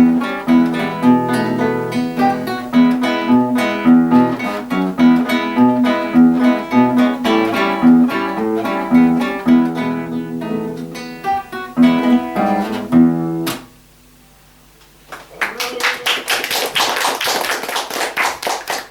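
A duet of two acoustic guitars plays a lively plucked and strummed passage with a steady pulse, ending on a final chord about 13 seconds in. After a short silence, applause starts.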